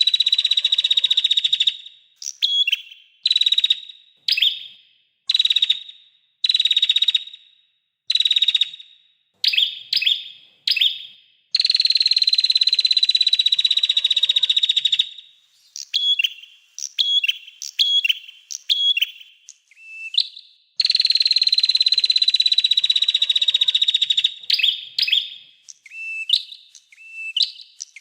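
Recorded small songbird song: long, high, buzzy trills that fall slightly in pitch, heard three times, alternating with short repeated chirp phrases about one a second, which quicken into rapid chips near the end.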